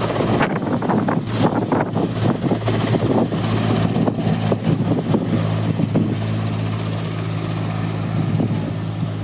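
Helicopter running close by: rotor blade chop with a steady low drone and a high turbine whine. The chop is strong for about the first six seconds, then eases into a steadier hum.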